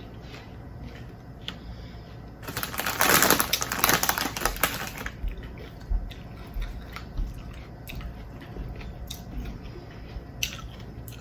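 Rapid crisp crackling of crunchy Takis chips, about three seconds long, starting a couple of seconds in, with scattered soft clicks and taps before and after.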